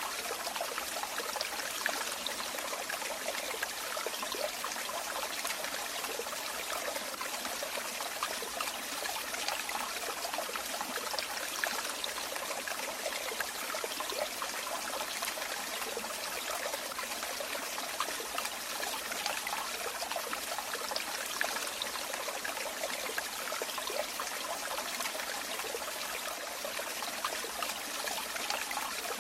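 Running water trickling and splashing steadily: a stream or small water flow with a fine, bright spattering texture and no change in strength.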